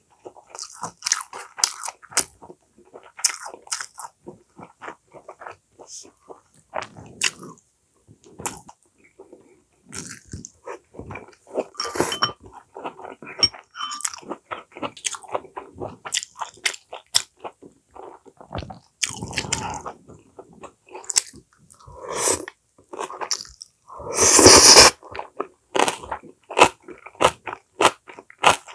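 A person chewing and biting food close to the microphone: wet mouth clicks and crunching, in irregular runs of short sharp sounds. Near the end comes one longer, louder rush of noise.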